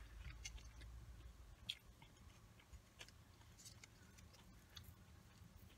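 Faint chewing of fried food, with scattered small clicks.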